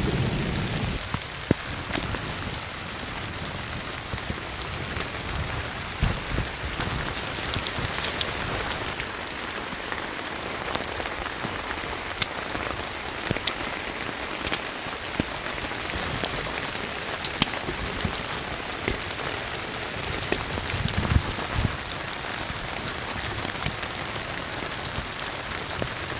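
Steady heavy rain, with scattered sharp drop impacts standing out. A low thunder rumble dies away in the first second.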